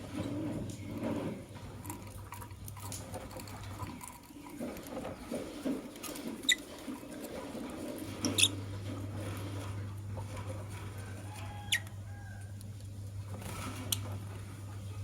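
Lovebirds moving about in a cage, scratching and shuffling, with four short, sharp, high chirps through the second half. A steady low hum runs underneath and drops out for a few seconds early on.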